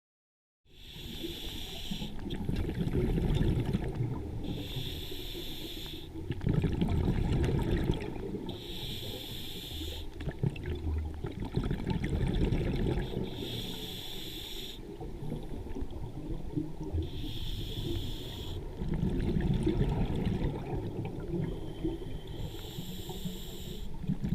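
A scuba diver breathing through a regulator underwater: a hissing inhale about every four seconds, six in all, each followed by a low rumbling burble of exhaled bubbles.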